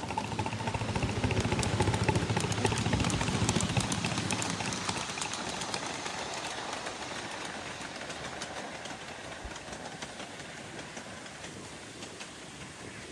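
A 7½-inch gauge ride-on model train rolling along the track, its wheels clicking rapidly over the rail joints. It is loudest a second or two in, then fades steadily as it moves away.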